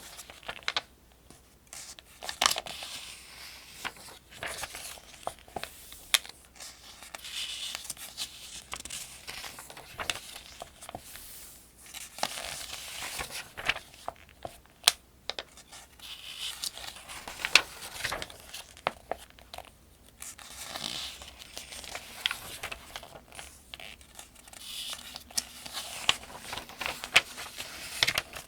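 Pages of a paperback almanac being turned one after another at a steady pace: a soft rustle and a crisp flick with each turn, every few seconds.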